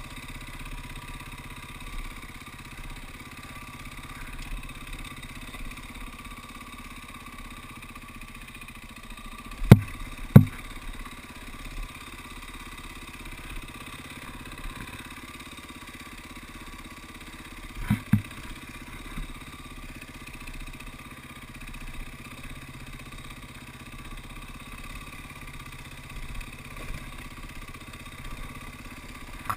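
KTM dirt bike engine running steadily at low revs, close to idle. Loud knocks break through twice about ten seconds in, and again around eighteen seconds.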